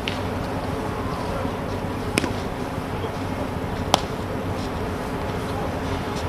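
Two sharp knocks, about two seconds in and again near four seconds, over a steady outdoor background noise.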